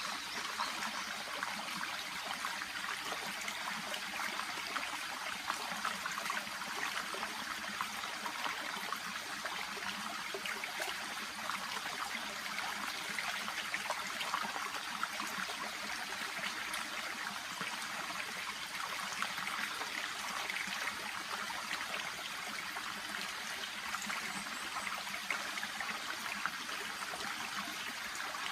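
Shallow brook babbling steadily, a dense continuous trickling and burbling of water.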